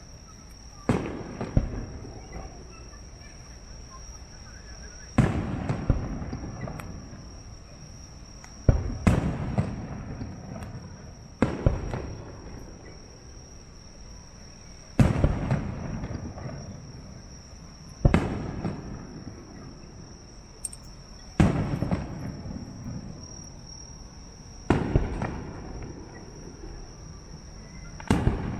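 Aerial firework shells bursting in a festival display: about ten sharp booms, a few seconds apart, some coming in quick pairs, each trailing off in an echoing rumble and crackle.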